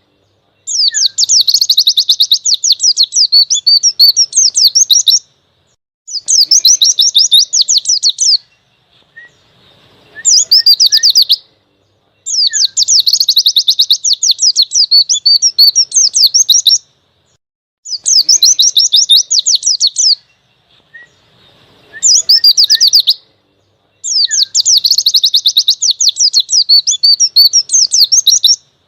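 White-eye (pleci) singing a forest-style ('ngalas') song in loud, rapid, high twittering phrases. There are about seven phrases, each a few seconds long, with short pauses between them.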